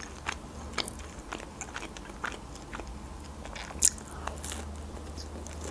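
Close-miked mouth sounds of a woman chewing soft homemade pizza: small wet clicks and smacks, with a sharper bite about four seconds in.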